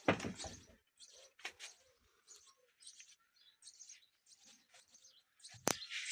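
Faint, scattered bird chirps. A short louder noise comes right at the start, and a single sharp click near the end.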